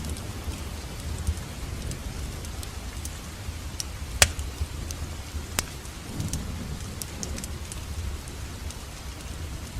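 Wood fire crackling in a fireplace: a low steady rumble of burning with scattered sharp pops and ticks, the loudest pop about four seconds in and another a second and a half later.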